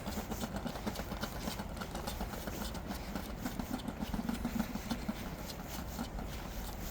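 An engine running steadily with a low hum, most strongly in the middle, with light clicks over it.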